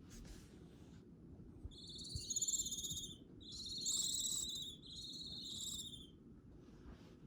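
Young barn owl chicks giving high, rasping, hiss-like calls, three in a row starting about two seconds in.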